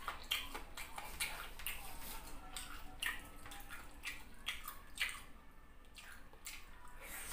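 Wet, close-up chewing and lip-smacking of a person eating chicken in sauce by hand: a run of irregular moist clicks and squelches, a few each second.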